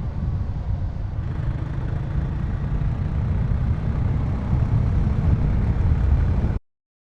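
Motorcycle on the move: a steady low rumble of engine and wind noise at a constant pace, cut off abruptly to silence near the end.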